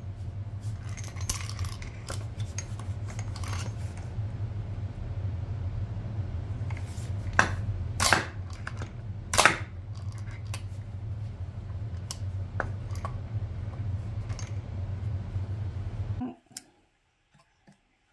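Metal shock-absorber parts clinking and tapping against each other, with several sharp clinks through the middle, over a steady low hum that cuts off suddenly near the end.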